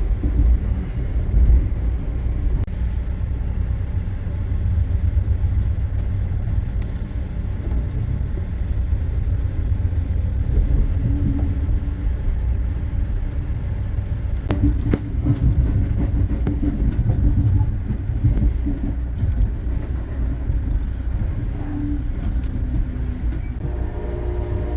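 Steady low rumble of a moving vehicle, with scattered light clicks and rattles. Music comes in near the end.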